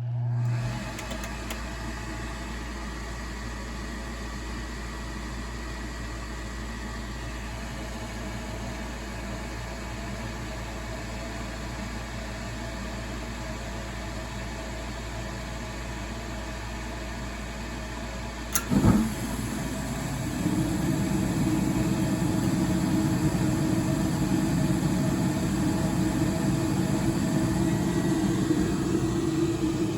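Old Amana gas furnace starting its cycle: the newly replaced draft inducer motor starts and runs with a steady hum. About two-thirds of the way through there is a sudden loud thump, and then a louder steady rumble sets in, the burners lighting.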